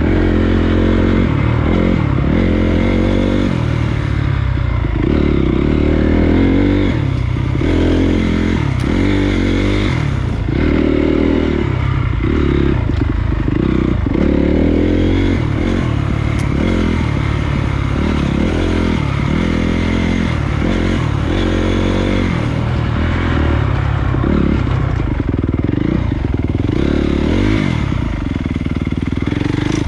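Honda CRF250 dirt bike's single-cylinder four-stroke engine running continuously, its pitch rising and falling every second or two as the throttle is opened and closed.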